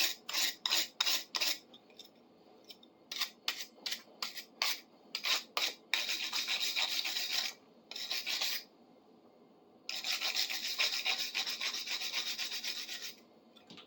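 Wire brush scrubbing rust and old grime from a steel wrench's teeth and threads: a quick run of short strokes, a handful of single strokes, then longer spells of fast continuous scrubbing with brief pauses.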